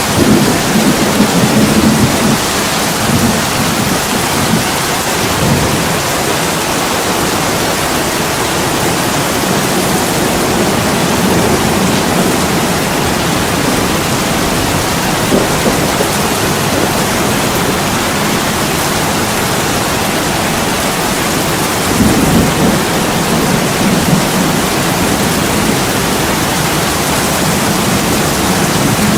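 Heavy rain pouring steadily on window glass, a dense even hiss, with deeper rumbling swells near the start and again about two-thirds of the way through.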